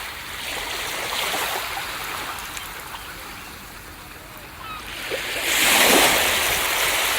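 Ocean surf on a beach. A wash of water fades away through the first few seconds, then a wave breaks about six seconds in, the loudest moment, and its hiss carries on to the end.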